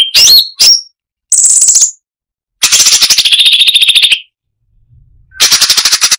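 Cucak cungkok (striated bulbul) singing in short bursts of rapid, rattling trills separated by silences. There are a couple of quick upswept notes at the start, a short high trill, a longer trill that drops in pitch partway through, and another fast trill near the end.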